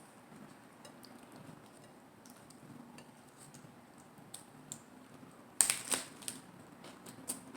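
Close-miked eating-show sounds of food and tableware being handled: faint scattered clicks and taps, then a louder cluster of sharp clicks about five and a half seconds in, with a few more single taps near the end.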